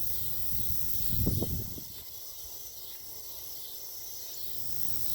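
Steady high-pitched insect-like chirring in the background, with a short low sound a little over a second in.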